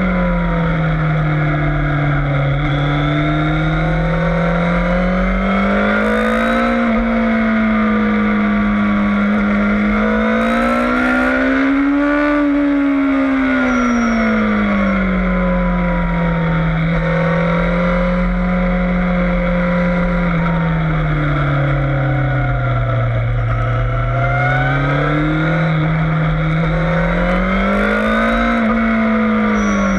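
Yamaha FZS600 Fazer motorcycle's inline-four engine running hard on a race track, its pitch rising and falling in slow swings as it accelerates and backs off, highest about a third of the way in.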